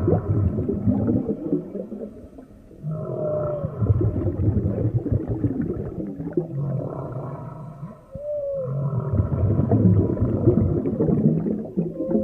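Underwater recording of deep moaning and groaning animal calls in long phrases, with short arching swoops of pitch, and breaks about two and a half and eight seconds in.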